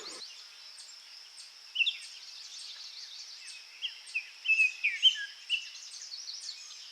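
Songbirds chirping and twittering in short scattered calls, some sweeping down in pitch, thickest about four to five seconds in. Under them runs a steady high insect-like drone.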